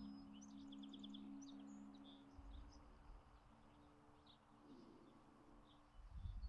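Faint birdsong: small birds chirping, with short quick trills, busiest in the first three seconds.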